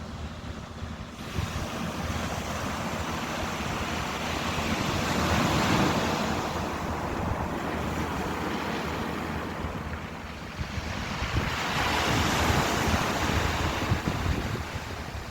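Ocean waves breaking and washing in, swelling twice, about five seconds in and again near twelve seconds, over a steady low rumble of wind on the microphone.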